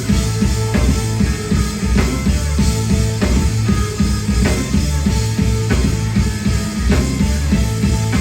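Live rock band playing an instrumental passage: drum kit, bass and electric guitar over a steady beat, with a drum hit about every 0.6 seconds.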